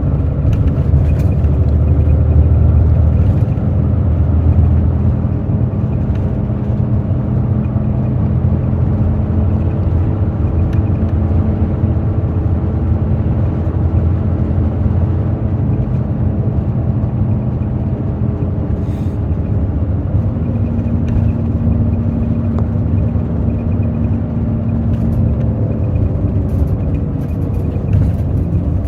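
Hino J08E-VD inline-six diesel of a Hino RN8JSVU city bus running steadily under way, with road rumble, heard from inside the passenger cabin. A few brief rattles come near the end.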